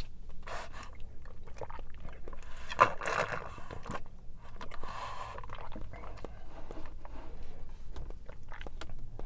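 Close-miked mouth sounds of a person drinking boba milk tea: chewing the soft tapioca pearls with many small wet clicks, and sucking tea and pearls up a wide straw in louder stretches about three seconds in and again about five seconds in.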